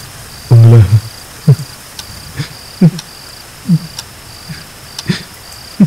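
Crickets chirping in a steady, evenly pulsing rhythm. Over them come louder short, falling vocal sounds, roughly one a second, the first and strongest shortly after the start.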